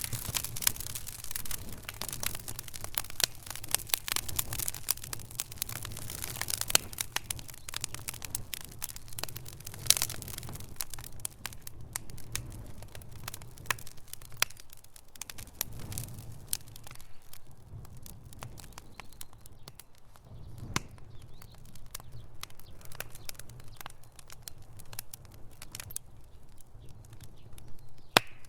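Wood fire in a fireplace crackling, with frequent sharp pops and snaps over a low rumble of flames; the pops come thick in the first half and thin out after about twelve seconds.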